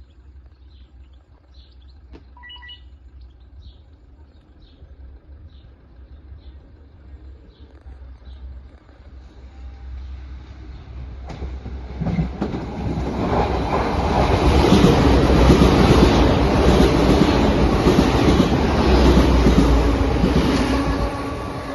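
A train passing over a level crossing. It is faint at first, grows louder from about halfway, runs loudest for several seconds, and begins to fade near the end.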